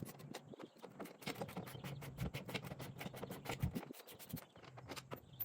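A hand ratchet clicking in quick runs while backing out bumper bolts, the clicks faint and several a second.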